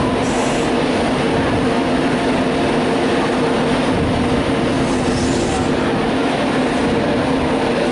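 Class 156 Sprinter diesel multiple unit running on its underfloor diesel engines as it departs, a steady, unchanging engine drone.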